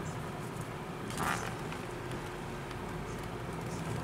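Car driving, a steady engine and road hum heard from inside the cabin, with a brief hiss about a second in.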